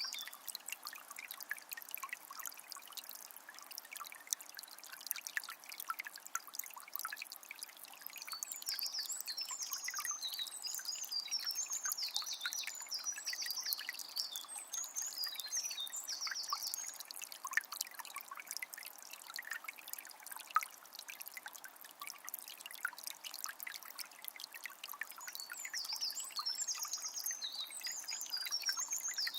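Water of a small spring trickling and splashing steadily, with a small bird singing quick chirping phrases from about a quarter of the way in to past the middle, and again near the end.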